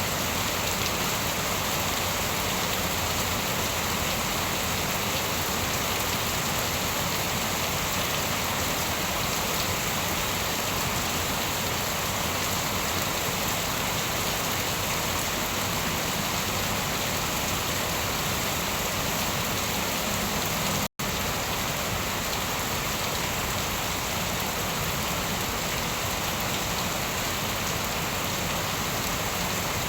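Steady rain falling, an even, unbroken hiss of drops on surfaces with no thunder. It drops out to silence for a split second about two-thirds of the way through, then resumes unchanged.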